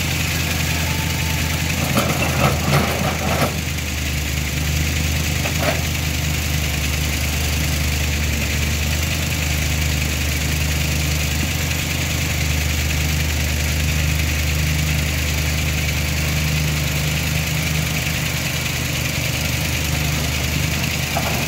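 A vehicle engine idling steadily, with a brief clatter about two to three seconds in.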